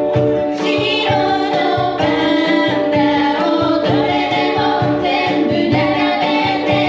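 Ukulele trio strumming and singing together live, several voices over a steady strummed beat. The singing comes in about half a second in.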